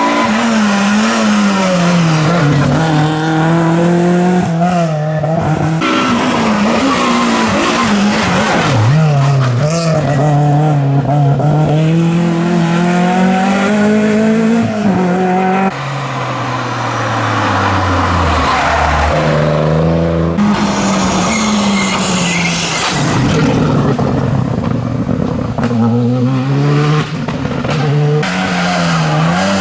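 Rally car engines at full effort, revving up and dropping back over and over through quick gear changes, with stepped downshifts under braking. There are sudden breaks where one car's sound gives way to another's.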